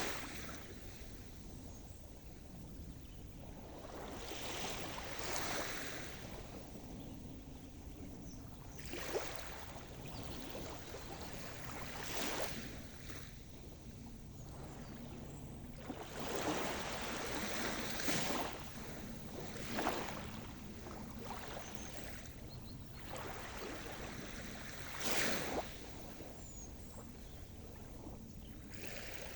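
Sea surf: waves breaking and washing onto the shore one after another, each a rush of noise that swells and fades every few seconds over a steady hiss of the sea.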